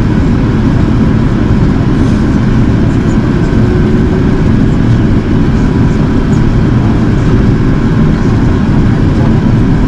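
Steady cabin noise inside an Airbus A380 in flight: the drone of its Rolls-Royce Trent 900 engines and rushing air, deep and even, with a faint steady hum above it.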